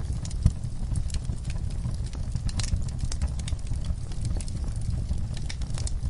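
Campfire crackling: irregular sharp pops and snaps over a steady low rumble, with one louder pop about half a second in.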